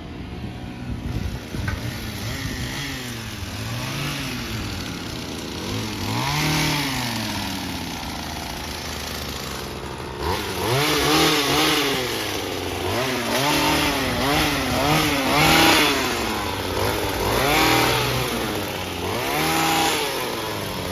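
Small gas engine of a handheld trimmer revving up and down over and over as it cuts, softer at first and louder from about halfway through.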